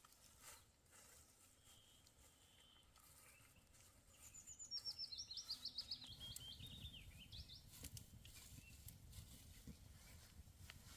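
A songbird sings one phrase of quick, high notes stepping down in pitch, lasting about three seconds, a few seconds in; a low rumble sits beneath from about the middle on.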